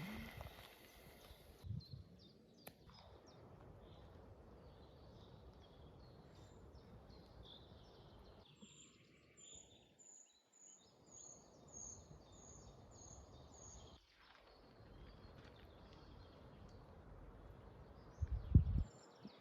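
Quiet forest ambience with birds chirping over a soft steady hiss. Midway a bird sings a run of about nine short, very high, thin notes, roughly two a second. A brief loud thump comes near the end.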